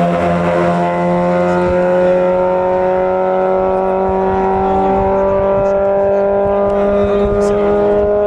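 A race car's engine pulling hard and steadily, its pitch rising slowly and evenly with no gear change.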